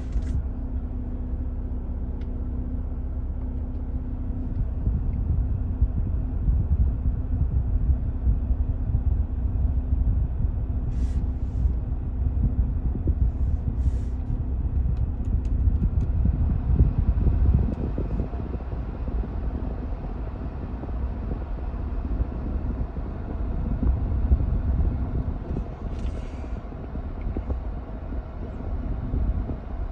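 Mercedes-Benz E300 idling, heard from inside the cabin as a steady low rumble, with the air-conditioning fan blowing while the AC starts to cool. A few faint clicks fall near the middle and toward the end.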